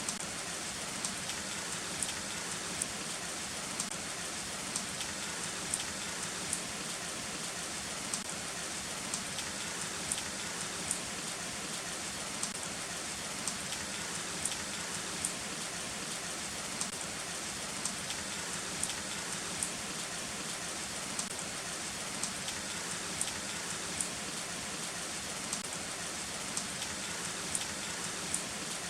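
Heavy rain falling steadily, with sharp drops striking a nearby surface about once or twice a second.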